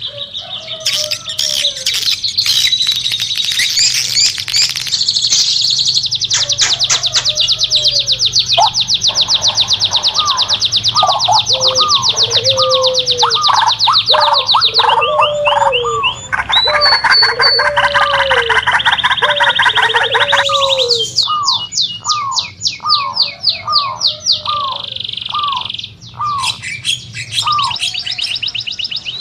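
Several forest birds singing and calling at once: long, fast, high trills over a run of repeated down-slurred whistled notes, with the mix of songs changing abruptly a few times.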